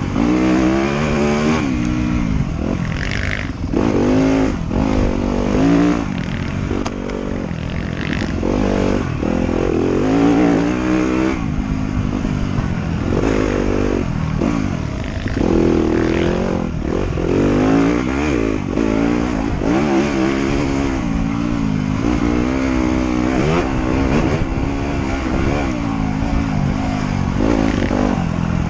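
Motorcycle engine being ridden hard on a trail, its revs climbing and dropping again every second or two through the gears and throttle changes.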